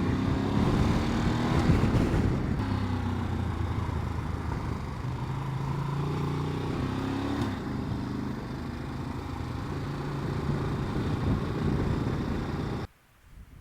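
Ducati DesertX's 937 cc twin-cylinder engine running under way, its pitch climbing and stepping with throttle and gear changes twice, over a steady rush of wind and road noise. The sound cuts off suddenly near the end.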